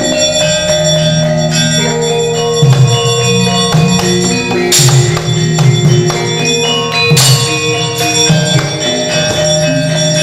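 Javanese gamelan playing, with ringing bronze metallophones and gongs holding a steady melodic pattern. Two sharp strikes cut through, about halfway in and again about two seconds later.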